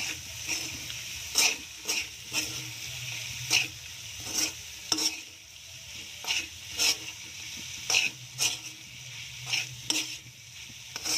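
Bagoong alamang (shrimp paste) with pork sizzling in oil in a wok as it is stirred with a spatula, with sharp scrapes and knocks of spatula on wok about once a second, often in pairs.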